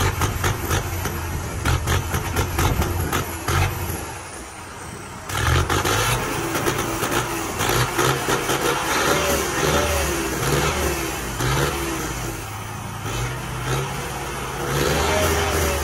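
Erkunt Haşmet 110 tractor's Perkins diesel engine being revved through its exhaust in repeated throttle blips. It drops back toward idle about four seconds in, then comes back up sharply and keeps rising and falling in quick revs.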